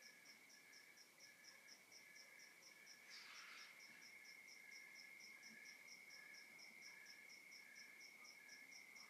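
Crickets and other night insects calling together: one steady, unbroken high trill, a quick regular chirping of about five chirps a second, and a slower pulsing call below them. A short hiss cuts across them about three seconds in.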